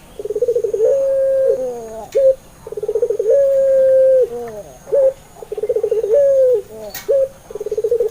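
Puter pelung (domesticated Barbary dove) cooing: each call opens with a rapid stuttering burst of short notes and ends in a long, drawn-out coo held at one pitch, repeated about three times.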